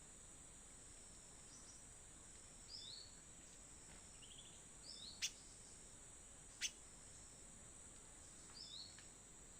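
Faint short two-note bird chirps repeating every few seconds over a steady high-pitched drone, with two sharp clicks about halfway through.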